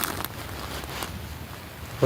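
Faint steady outdoor background noise, a low rumble with a soft hiss, like light wind on the microphone, with a single short click at the start.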